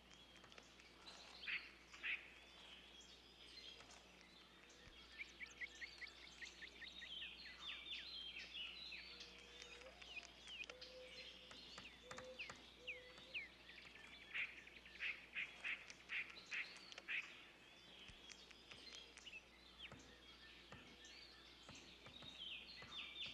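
Faint woodland birdsong: several small birds chirping, with rapid trills and short falling calls throughout.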